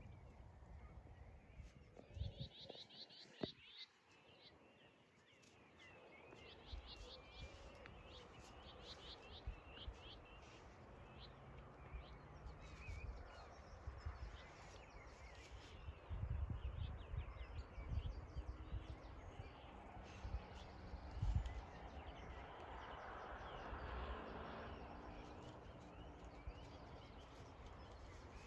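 Outdoor evening ambience: small birds chirping and calling with many short, repeated notes. A low rumble of wind or handling noise on the microphone comes and goes, stronger in the second half.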